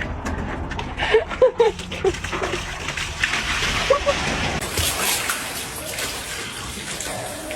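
Water splashing and sloshing, with a few short vocal sounds in the first half.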